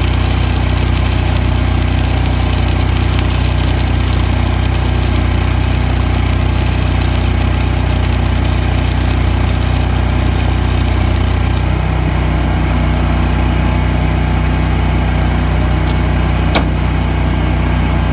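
Engine-driven welding machine running steadily, with the crackling hiss of a stick-welding arc over it that stops about two-thirds of the way through; a single sharp click near the end.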